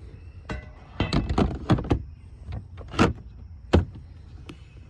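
A cover under the hood of a UTV being taken off and fitted back on: a quick run of clicks and knocks about a second in, then two louder single knocks later.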